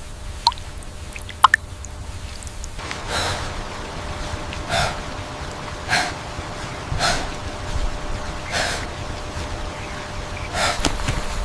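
A series of loud, breathy gasps, about one a second, starting about three seconds in, after a few faint high chirps.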